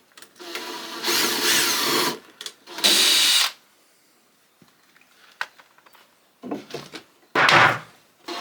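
A power drill running in three bursts, the first the longest, driving fixings into wood, with small clicks and knocks between the bursts.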